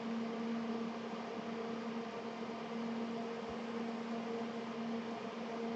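Steady background hum with two fixed tones and an even hiss, unchanging throughout: room tone.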